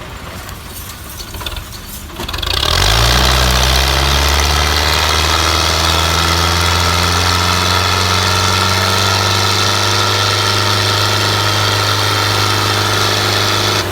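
Belarus 510 tractor's four-cylinder diesel engine, first running low, then about two and a half seconds in quickly revving up and holding a loud, steady high speed.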